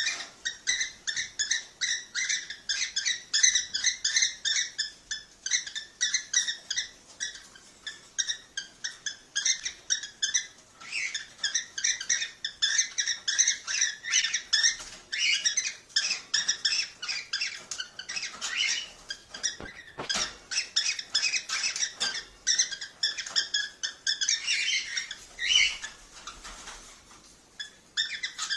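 Cockatiels chattering in a dense, continuous stream of short high chirps and squeaks: a cockatiel breeding-stimulation song.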